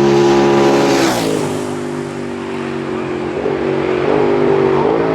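A road-racing motorcycle passes at speed about a second in, its engine note dropping sharply in pitch as it goes by with a brief rush of air. A lower engine note carries on, rising briefly a couple of times near the end.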